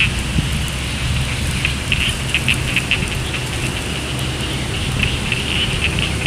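Steady rain falling, a continuous hiss with a low rumble beneath and an irregular flickering high sound above it.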